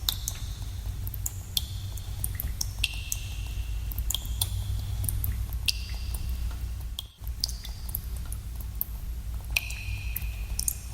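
Water dripping in a cave: irregular drops falling into pools, each a sharp plink with a short ringing pitch, a few every second, over a steady low rumble. The sound cuts out for an instant about seven seconds in.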